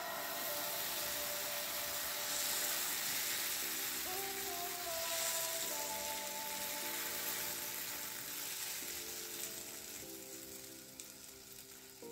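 Pancake batter sizzling in a hot oiled frying pan as it is poured in and spread, the sizzle dying down near the end. Background music plays underneath.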